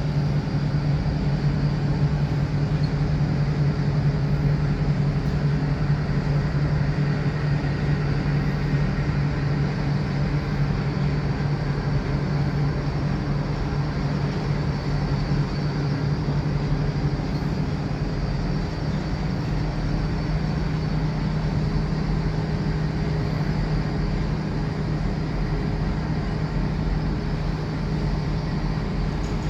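Steady mechanical drone with a constant low hum and an even rushing noise over it, unchanging throughout.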